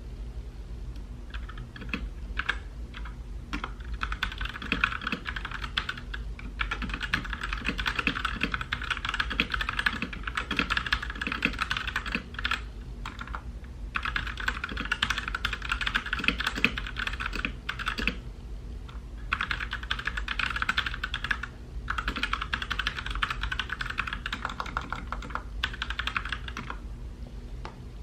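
Typing on a mechanical keyboard: runs of rapid key clicks lasting a few seconds each, broken by short pauses.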